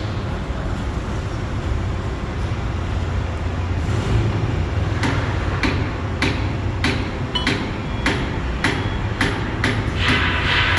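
Hammer blows on steel, a dozen or so irregular strikes starting about halfway through, each with a short ring, over a steady low rumble. Near the end a hissing noise comes in under the strikes.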